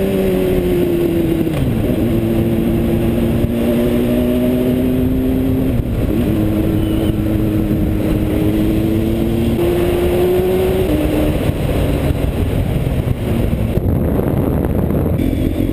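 Motorcycle engine running while riding at speed, with steady wind rush over the microphone. The engine note drops about a second and a half in and shifts again about six seconds in and near ten seconds, as it changes gear or speed.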